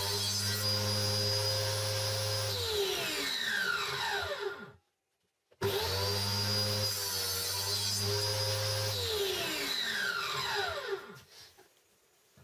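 An electric power-tool motor running steadily, switched off and winding down with a falling whine, then started again about halfway through and switched off once more, its pitch dropping as it spins down.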